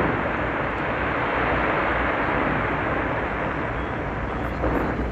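A dense fireworks barrage going off, its explosions blending into one steady rumbling roar.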